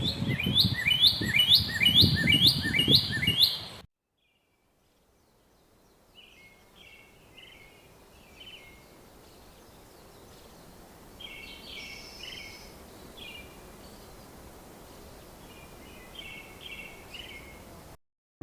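Birds singing: a loud call repeated about twice a second over a low rumble for the first four seconds. It cuts off, and after a short gap fainter, scattered chirps come over a light outdoor hiss.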